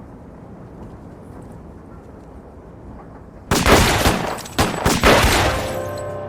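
Loud blasts of violent noise, gunfire-like, in several bursts that start about three and a half seconds in and last around two seconds. They follow a stretch of low background hiss.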